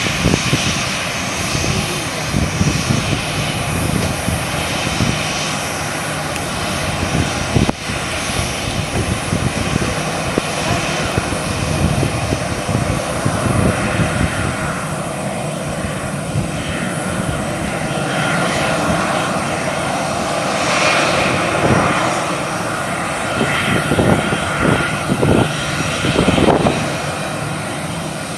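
Jet airliner engines running, a loud continuous rushing noise with a faint whine, swelling slightly about two-thirds of the way in.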